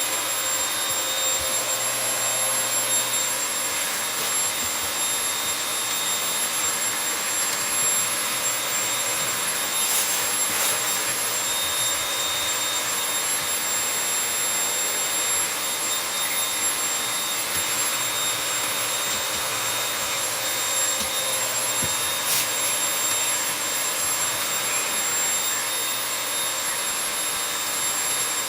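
Vacuum cleaner running steadily: a rushing hiss with a thin high whine over it, and twice a brief tick as something is picked up or the nozzle knocks.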